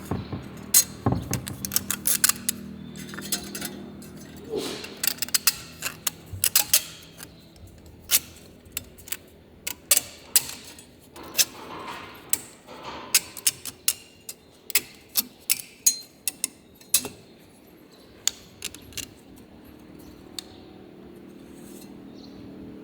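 Metal tools and small engine parts clinking and tapping against each other in irregular sharp clicks, over a steady low hum that fades in the middle and returns near the end.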